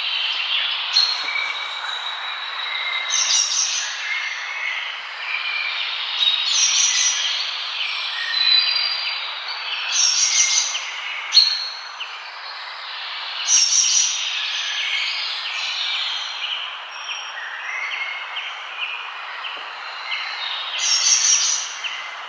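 Several forest birds singing and chirping in overlapping short phrases and trills, over a steady rushing background noise.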